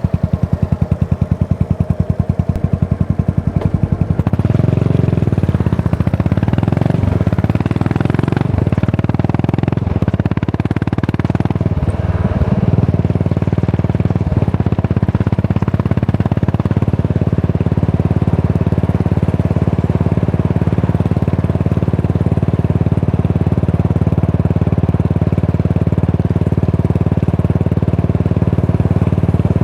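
Yamaha SR400 single-cylinder four-stroke engine through a Goods tapered cone slip-on muffler. For about four seconds each exhaust beat can be heard separately at low revs. It then gets louder with the pitch rising and falling, and from about halfway it runs steadily.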